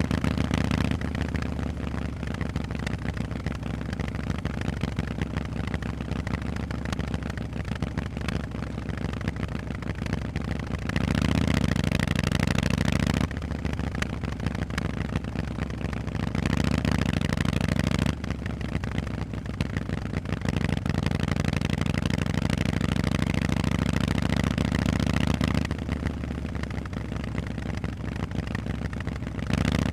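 Harley-Davidson Forty-Eight's air-cooled V-twin running through Vance & Hines exhausts, ridden on the road. The engine note stays steady but swells louder for a couple of seconds about a third of the way in, again about halfway, and once more at the end, easing back in between as the throttle is opened and closed.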